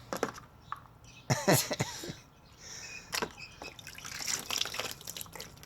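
Water trickling and dribbling as a toy boat is filled and tipped out like a cup. A short voice sound comes about a second and a half in.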